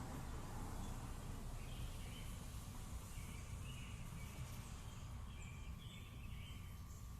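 Birds chirping in short repeated calls over a steady low rumble of background noise.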